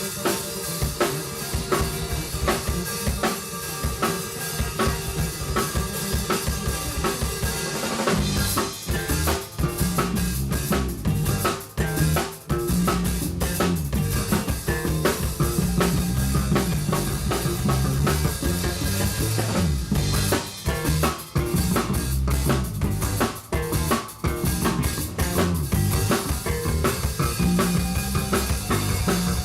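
A band playing live, driven by a drum kit with snare and bass drum. About eight seconds in, a heavy low end comes in and the full band plays, with a few brief breaks.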